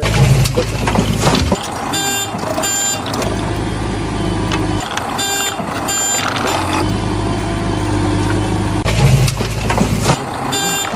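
Toy vehicle's electronic sound effects: a recorded engine rumble that runs in stretches, with pairs of beeps repeating about every three seconds like a reversing alarm.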